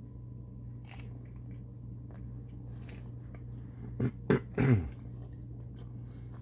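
A man chewing a bite of a tortilla wrap, with small mouth clicks. About four seconds in come three short voiced hums from him, the last one falling in pitch.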